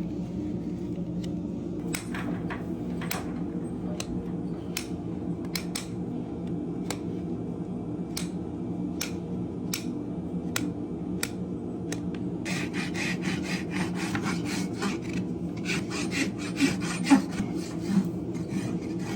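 Farrier's rasp filing a horse's hoof in regular strokes, roughly one every second at first, then quicker, denser strokes from about two-thirds of the way in. A steady low hum runs underneath.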